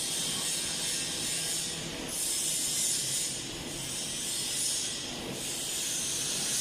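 6090 ATC CNC router running its automatic tool-length measurement: the machine hums steadily under a high hiss that swells and fades about every second and a half.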